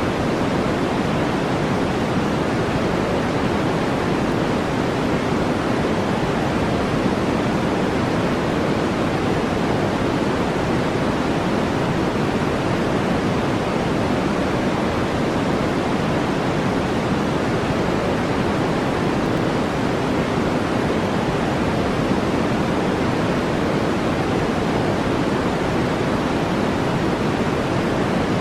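Steady brown noise: a deep, even hiss that never changes, heavier in the low range than the high.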